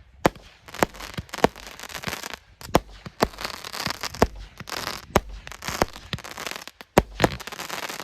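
150-shot M50 fireworks battery (cake) firing. About ten sharp bangs of bursting shells come at uneven intervals of half a second to a second, with crackling between them.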